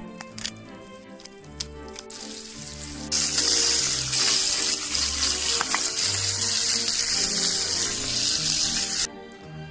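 Loud hissing sizzle of food cooking in a frying pan over a campfire. It starts about two seconds in, gets louder a second later and cuts off suddenly near the end, over background music.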